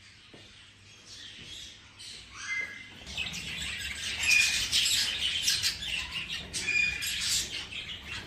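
A flock of budgerigars chattering, chirping and squawking. It is faint at first, with a single chirp, and becomes busy and louder about three seconds in.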